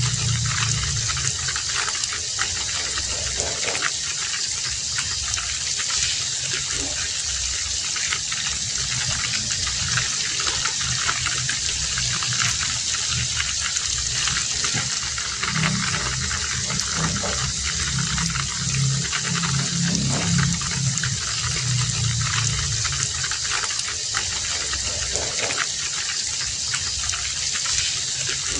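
Heavy rain falling steadily as a dense, even hiss, with a low rumble swelling at the start and again around the middle.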